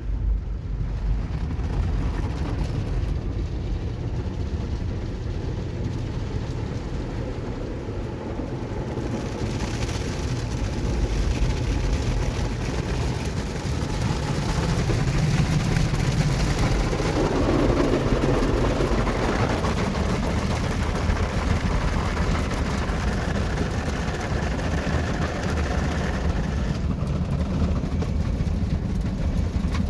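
Ryko SoftGloss XS automatic car wash running its wash cycle: a steady rumble of the machinery with water spray and brushes on the car. The spray hiss grows louder about ten seconds in.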